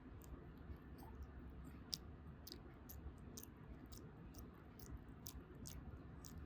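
Faint, irregular small clicks, a few a second, one sharper click about two seconds in, over a low steady room rumble.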